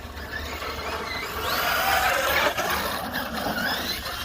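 Electric drivetrain of a REEPER 1/7-scale RC monster truck whining as it is driven, the pitch rising and falling with the throttle and climbing sharply about halfway through.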